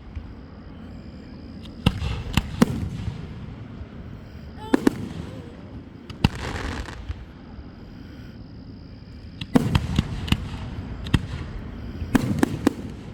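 Fireworks going off: irregular sharp bangs, several coming in quick clusters, with a longer hissing crackle about six seconds in.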